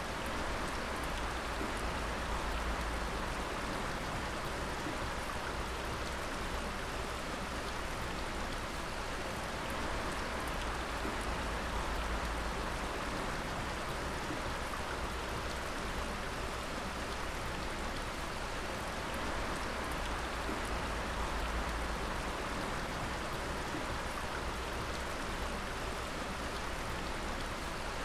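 Water dripping steadily: many small drops ticking over an even hiss of falling and running water.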